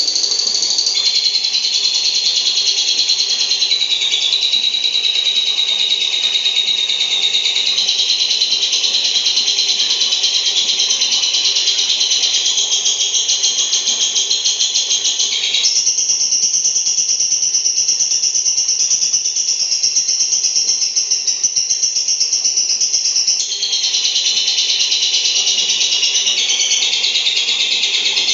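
Female lovebird giving a long, unbroken ngekek: a fast, high rattling chatter that runs on without a pause, shifting in pitch every few seconds.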